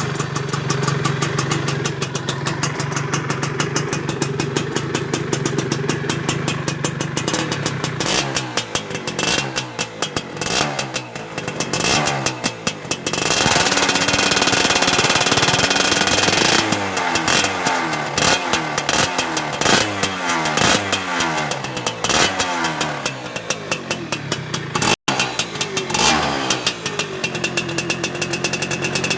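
2003 Yamaha F1ZR's single-cylinder two-stroke engine running through an AHM Malaysia aftermarket exhaust: idling steadily, then revved up and down repeatedly from about eight seconds in, with a loud sustained high-rev stretch in the middle.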